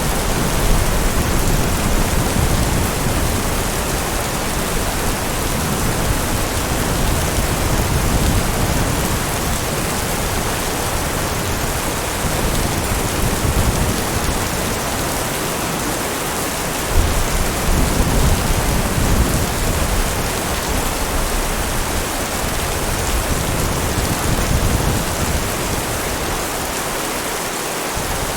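Steady heavy rain hissing, with low rolling thunder rumbling underneath it and one brief louder swell a little past the middle.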